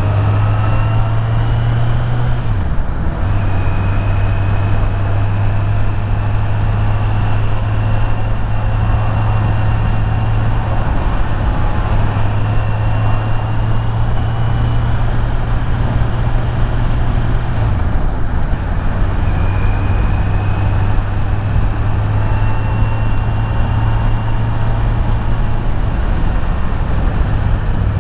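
Kawasaki Z900 inline-four engine running steadily under way, heard through loud wind rush. The engine note shifts briefly about three seconds in and again about eighteen seconds in, and a faint high whine slowly rises and drops back several times.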